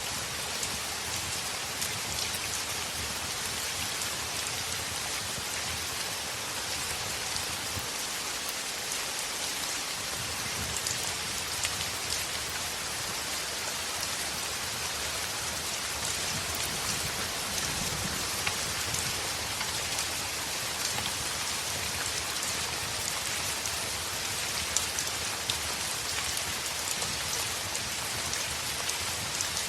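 Heavy rain falling steadily on a window: a dense, even hiss with many scattered sharp ticks of drops.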